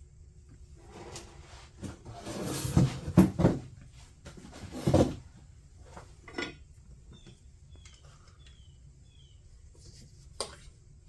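Clatter, knocks and rustling of tools and a circuit board being handled on a workbench during desoldering, loudest in a few knocks in the first half.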